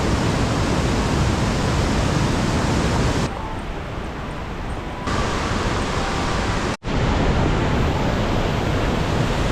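Loud, even rushing noise of wind and rain on the microphone in a mountain downpour, with heavy low buffeting. It drops back for a couple of seconds in the middle, and cuts out abruptly for an instant near the end.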